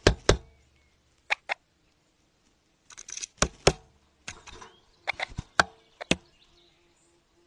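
Sharp knocks or taps in irregular pairs and small clusters, with a couple of short scraping rustles between them.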